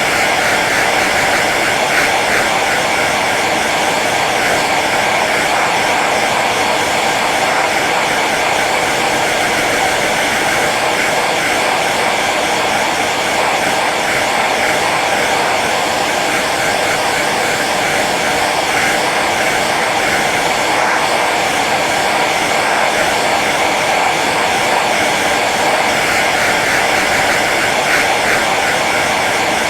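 Hair dryer running steadily on its low setting: an even, unchanging whoosh of fan and airflow.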